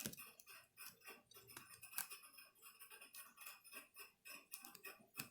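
Faint, irregular small clicks and scrapes of hand tools working on a laptop's internals, over the faint steady hum of a turtle tank's filter.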